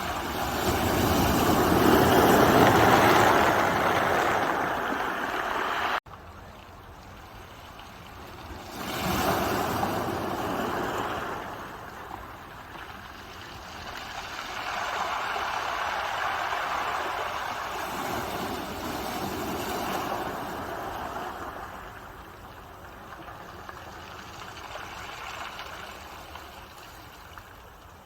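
Ocean waves breaking and washing up, several swells of surf rising and falling away. The sound drops abruptly about six seconds in, then the waves keep coming in quieter surges.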